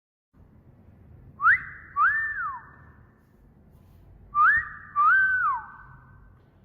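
A wolf whistle played twice. Each is a quick rising note followed by a longer note that rises and then falls, with an echoing tail.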